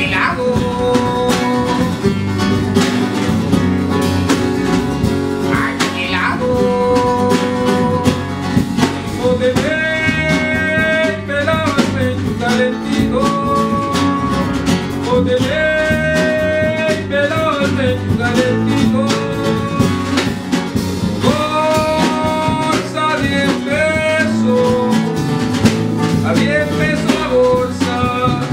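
Live band music: guitars playing under a melody line of held, gliding notes, with no words sung.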